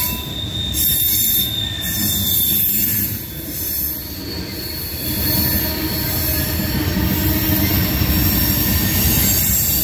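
Freight train tank cars rolling past, a steady rumble with steel wheels squealing against the rails in thin, high tones.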